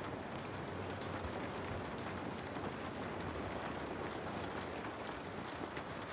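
Steady rain falling on a window, an even patter with scattered individual drop ticks.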